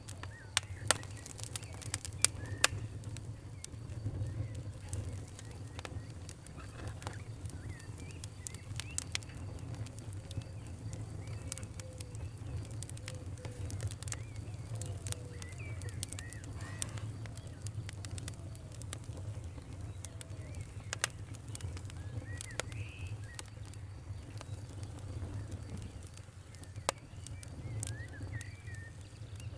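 A fire crackling, with scattered sharp pops over a steady low rumble. The loudest pops come in the first few seconds and again near the end. Birds chirp faintly in the background.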